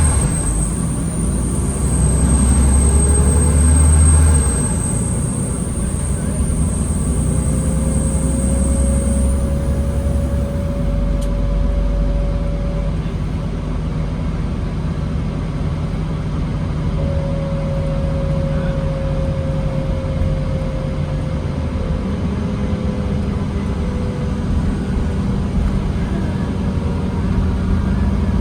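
New Flyer D40LFR diesel transit bus running in stop-and-go traffic, heard from inside: a steady engine drone, with a thin high whine that stops about ten seconds in and two drawn-out mid-pitched whines later as the bus moves off.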